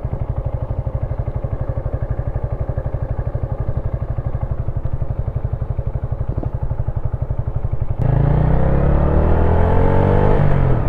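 Wolf Classic 125cc motorcycle engine idling with an even putter. About eight seconds in it turns louder as the bike gets under way, the engine note rising and then dropping at a gear change near the end.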